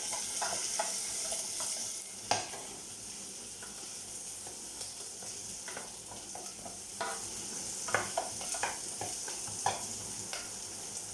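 Onion, garlic and celery sizzling in hot oil in a frying pan, with the scrape and knock of a utensil stirring them, a few sharper knocks against the pan along the way.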